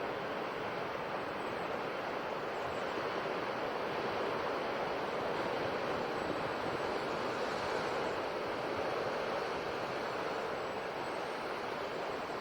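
Sea surf washing on the shore, a steady rush of waves that swells a little in the middle and eases toward the end.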